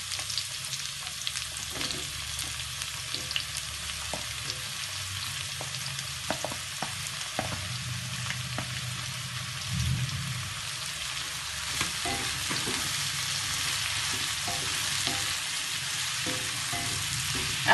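Sliced button mushrooms sizzling in hot oil in a wok as more are tipped in and stirred, with a wooden spatula scraping and clicking against the metal pan.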